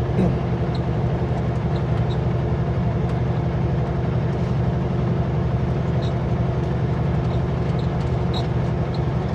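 Steady in-cab drone of a Kenworth W900L semi truck driving on the highway: the diesel engine's low hum with road noise, holding even throughout.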